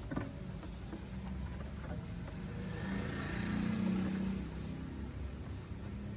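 A motor vehicle's engine hum that swells to a peak about three to four seconds in and then eases off, over a steady low rumble, with a short click right at the start.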